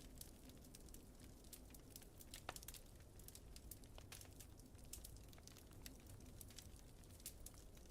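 Wood fire crackling softly, with many small irregular pops and a couple of sharper snaps, over a low steady rumble.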